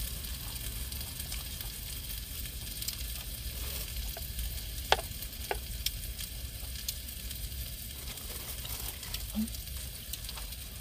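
Beef sizzling in a frying pan: a steady hiss with scattered small pops, and a couple of sharp clicks about halfway through.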